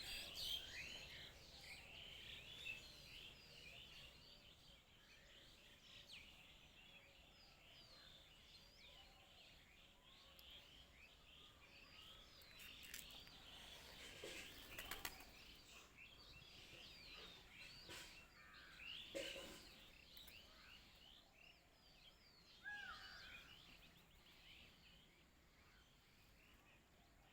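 Many small birds chirping faintly and continuously, a dense chorus of short overlapping chirps, with a few soft bumps in the middle.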